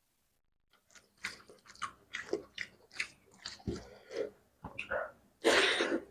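Close-up mouth sounds of someone eating fish curry: a run of short wet chewing smacks, about three or four a second, then a louder breathy rush near the end.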